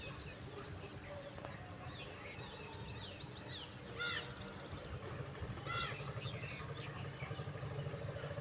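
Several birds chirping and trilling in short, quick high notes over a steady low background hum of outdoor noise.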